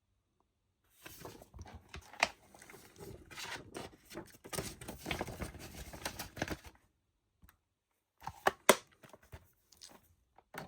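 Handling of a plastic Blu-ray case and its cardboard slipcover: several seconds of sliding, rustling and scraping, then two sharp clicks close together about eight and a half seconds in.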